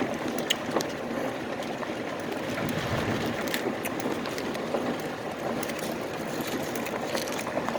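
Steady road and engine noise inside a moving car, with a few faint clicks.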